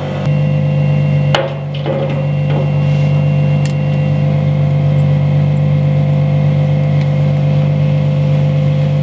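Car engine idling steadily, with a few sharp knocks about one and a half to two and a half seconds in.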